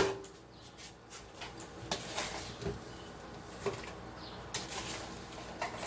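Scattered light knocks, clicks and brief rustles of kitchen handling, with a few short hissy patches about two seconds in and again near the end, as sugar is added to fresh pineapple juice.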